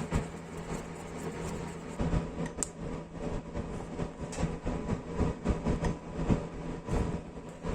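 Hands-on workshop work on tool parts: a steady low hum runs throughout, under irregular clicks and knocks of parts being handled and worked.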